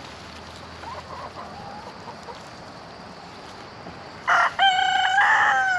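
A rooster crowing once, loud, starting about four seconds in, after a few faint clucks from the flock.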